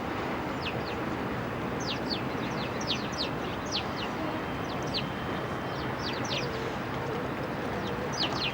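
Small birds chirping: many short, quick, falling chirps, two or three a second, over a steady background rumble.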